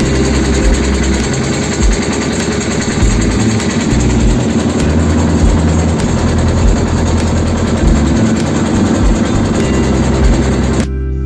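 Small wooden river motorboat (pompong) engine running steadily under way. Near the end it cuts off abruptly into guitar music.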